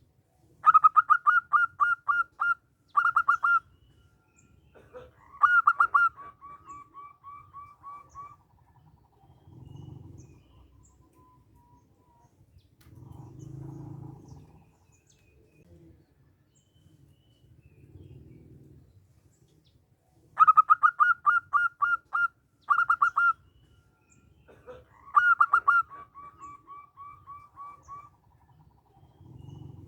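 Zebra dove (perkutut) singing: a fast run of clipped cooing notes, a short break, then a phrase that trails off into a row of softer, lower notes. The song comes twice, about twenty seconds apart, with faint low rumbles in the gaps.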